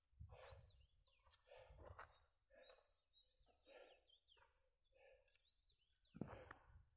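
Near silence with faint bird chirps now and then, short falling notes, and a brief louder thump about six seconds in.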